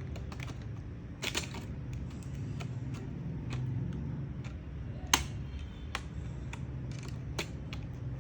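Irregular sharp plastic clicks and taps from working at a laptop's plastic bottom cover, which is stuck and won't come off; a short cluster a little past a second in and one louder click about five seconds in, over a steady low hum.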